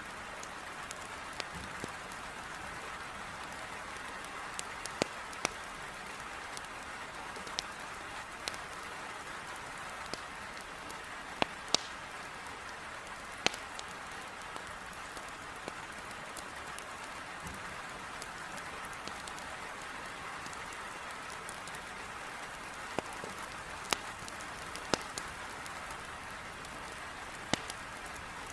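Heavy rain with a steady hiss against a window, with sharp crackling pops from a wood fire in a fireplace scattered irregularly through it.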